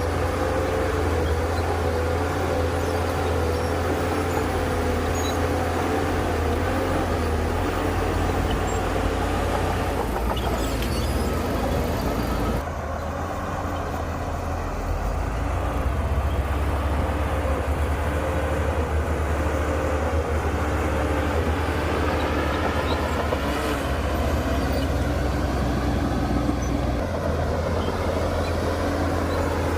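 Heavy diesel engine of earthmoving machinery running steadily under load, with a deep rumble. It dips briefly about a third of the way through, then picks up again, its pitch rising and falling later on as the throttle changes.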